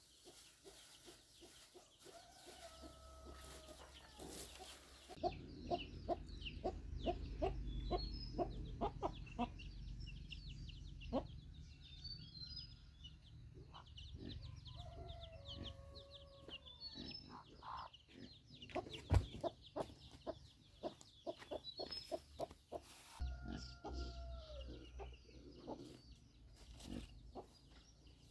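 Bird calls: runs of short, quick calls with a few longer falling calls in between, over a low rumble that sets in about five seconds in and drops away a few seconds before the end.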